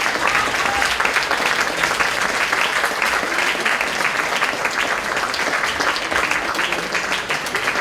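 Concert-hall audience applauding, a dense, steady patter of many hands clapping.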